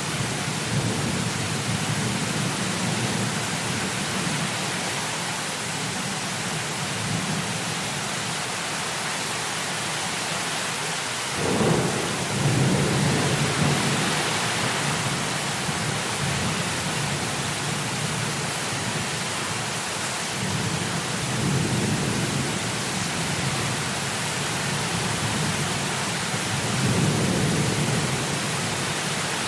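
Heavy rain falling steadily with rolling thunder: a sharp clap about eleven seconds in that rumbles on for a few seconds, and softer rolls of thunder later on.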